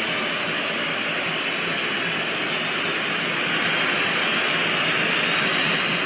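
Stadium crowd noise: a dense, steady roar of many voices that grows slightly louder about halfway through.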